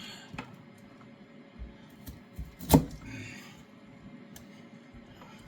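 A blunt kitchen knife cutting the ends off Brussels sprouts: a few light knocks and one sharp knock a little under three seconds in.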